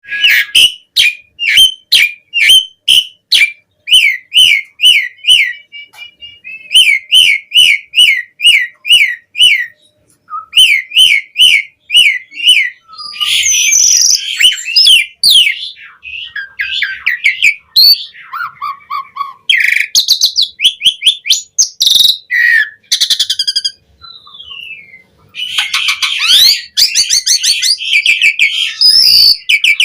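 Asian pied starling (jalak suren) in full, vigorous song. It opens with a fast series of repeated down-slurred whistled notes, about three a second, then about halfway through breaks into varied, harsher chattering phrases mixed with whistles.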